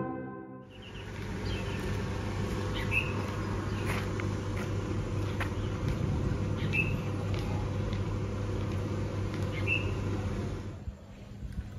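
Outdoor background noise, a steady low hum, with a bird giving a short chirp three times, a few seconds apart.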